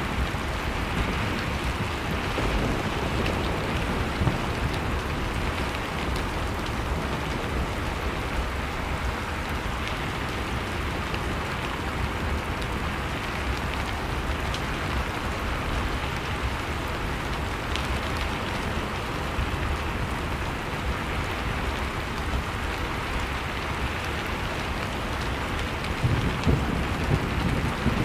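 Fireplace crackling over a steady howl of blizzard wind, mixed as one continuous ambience, with a low gust swelling up near the end.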